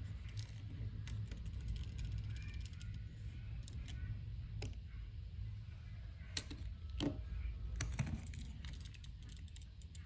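Scattered small plastic clicks and rattles, toys being handled, thickest in the second half, over a low steady rumble.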